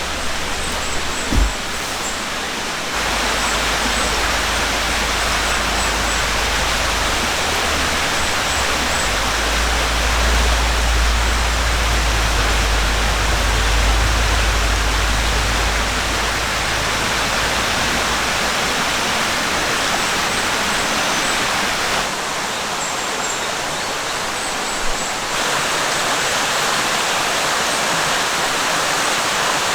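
Valley stream water flowing, a steady rushing sound, with a low rumble under it through the middle stretch.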